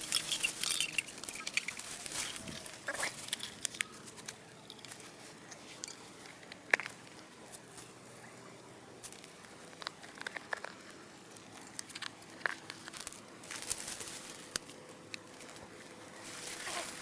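Rustling and crinkling handling noise with scattered short clicks and one sharper click about seven seconds in, as fishing tackle is handled while a long pole rod is being readied.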